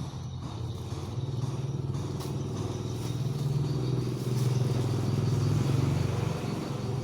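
Two-stroke motorcycle engine running, its note growing louder in the middle and easing back near the end.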